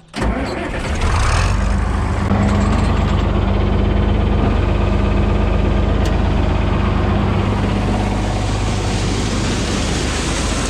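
John Deere 4000 tractor engine starting up, then running steadily. It settles into a louder, even run from about two seconds in.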